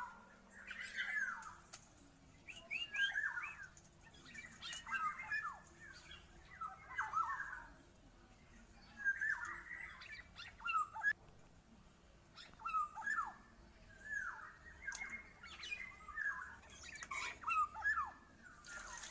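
Black-naped oriole singing: short, fluty whistled phrases with swooping pitch, repeated every second or two with brief pauses between.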